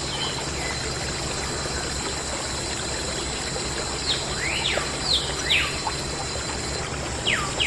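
Water pouring and trickling steadily, typical of a small DIY water pump's outflow, under a thin high steady tone that stops near the end. Several quick sliding chirps come from about four seconds in and again just before the end.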